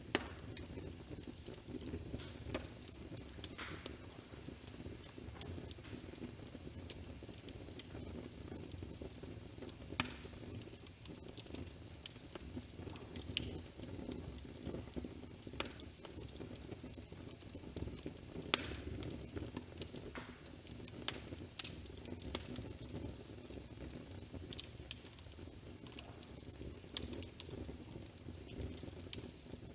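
Wood fire crackling in a fireplace: irregular sharp pops and snaps over a steady low rush, with a couple of louder pops around ten seconds in and again past the middle.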